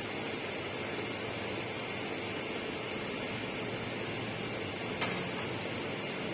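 Steady, even rushing noise, with a single sharp click about five seconds in.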